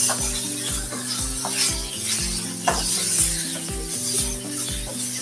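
Chicken pieces sizzling in oil in a small electric pot while a wooden spatula stirs and scrapes them, over background music with a steady beat.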